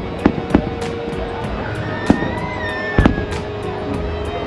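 Fireworks going off in a string of sharp bangs and crackles, the loudest about three seconds in.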